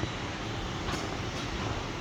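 Steady rain falling, an even constant hiss with a low rumble underneath.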